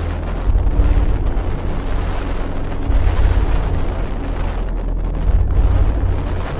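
Storm at sea around a cruise ship: a loud, deep rumbling roar of wind and heavy waves that swells and eases every couple of seconds.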